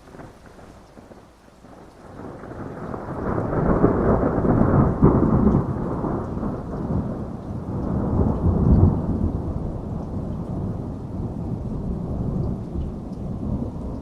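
A long roll of thunder that builds about two seconds in, swells twice and dies away near the end, over steady rainfall.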